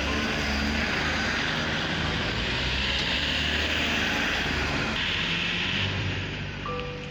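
A steady engine drone with a low rumble.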